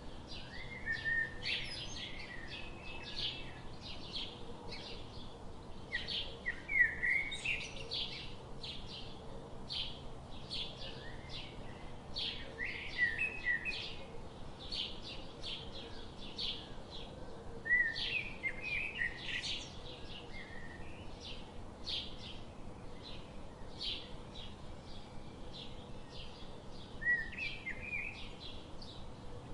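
Several small birds chirping and calling, a dense run of short, quick chirps with a few brief trills, with a low steady background noise.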